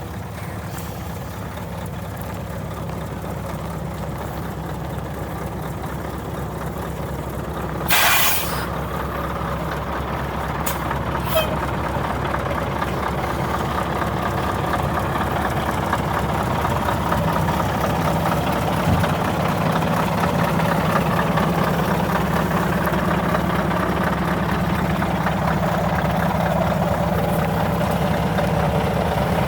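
Scania T144 truck's 14-litre V8 diesel idling steadily, growing gradually louder. About eight seconds in there is a short, sharp hiss of compressed air from the truck's air system.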